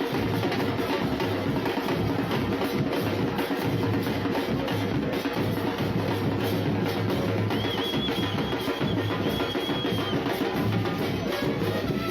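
Drum-heavy music with a steady beat, the percussion dominating; a high wavering tone sounds for a couple of seconds past the middle.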